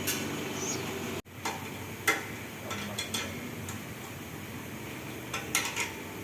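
Metal hand tools clinking and tapping on metal parts: a few separate sharp clinks spread over several seconds.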